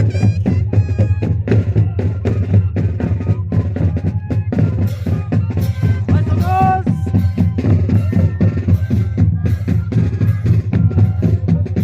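A moseñada ensemble of moseño cane flutes playing over steady drumbeats, a dense, loud festive tune with a regular pulse.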